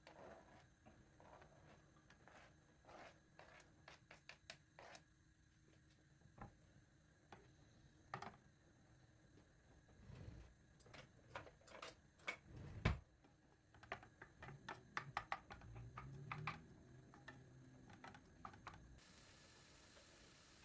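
Scattered light clicks and knocks of objects being handled, with one louder knock about 13 seconds in, over a quiet room; a steady faint hiss takes over near the end.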